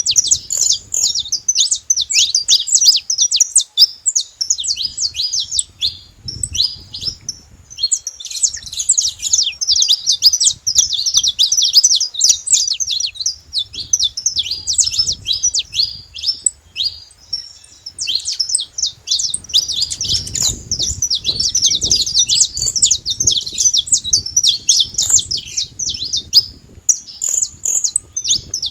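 Saffron finches singing and chirping in a dense, continuous run of rapid, high, sharp notes.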